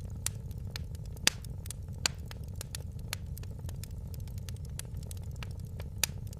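Wood fire crackling, with scattered sharp pops over a steady low rumble of the burning fire; the loudest pops come about a second in, about two seconds in, and near the end.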